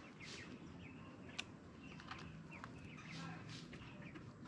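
Faint bird chirps, short and scattered, over quiet outdoor background, with one sharp click about a second and a half in.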